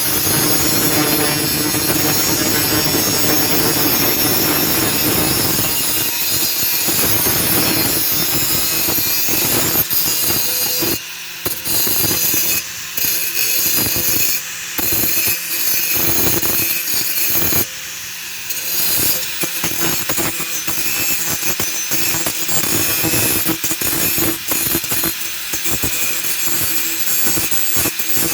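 Hand tools cutting and rasping a steel saw blade being shaped into a knife. A steady, even noise runs for about six seconds, then gives way to rapid back-and-forth strokes broken by short pauses.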